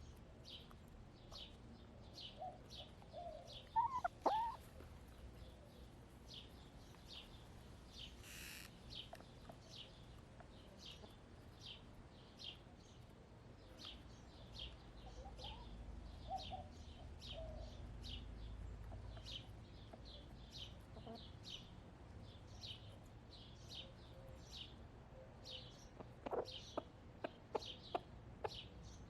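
Backyard hens clucking softly now and then, with a louder short call about four seconds in, over high chirping repeated about every second in the background. Near the end, a quick run of sharp taps.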